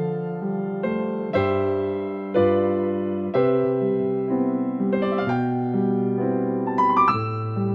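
Solo piano playing a slow, gentle song, with chords struck about once a second and left to ring. A quick rising run of notes comes near the end.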